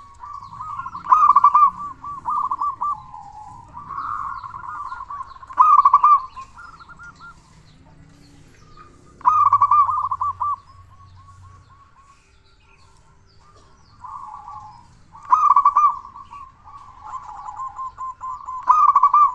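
Male zebra dove (perkutut) singing with a loud voice: rapid stuttering cooing phrases repeated every few seconds, with softer notes between them and a short lull in the middle.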